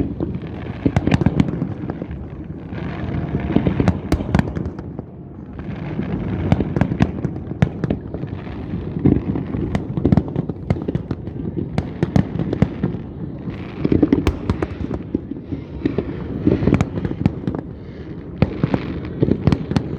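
Fireworks display: a dense, continuous run of bangs and crackles, coming in clusters every second or two.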